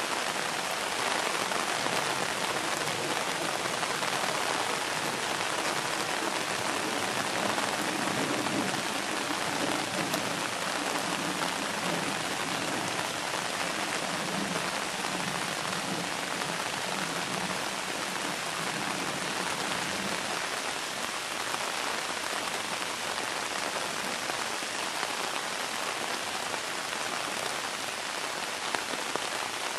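Steady hiss of rain, level throughout, with a faint low rumble underneath for a while in the middle.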